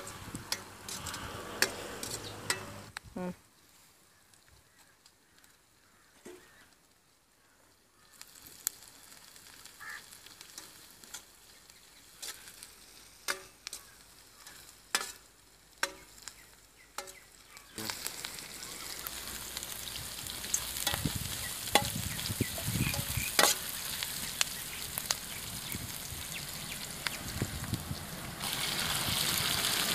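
Onions, garlic and curry leaves frying in coconut oil in a wok, a sizzling hiss with the metal ladle scraping and clinking against the pan. The sizzle sinks low for a few seconds soon after the start, comes back, and is louder and steady from about halfway. It rises again near the end as chopped tomatoes go into the hot oil.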